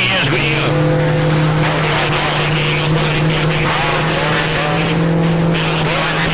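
CB radio receiver audio on a crowded skip channel: a steady low heterodyne hum over static, with faint warbling, garbled signals wavering above it.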